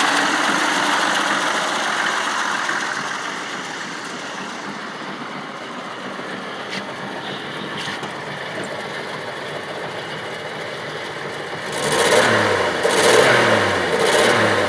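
1949 Hudson Super Six's straight-six engine running at idle after a cold start, then revved three times near the end, about a second apart, the pitch rising with each rev.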